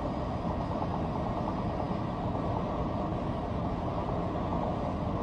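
Steady, muffled rumbling noise with a hiss, cut off above the low-to-middle range as heard over a two-way radio link, with no clear strokes or changes.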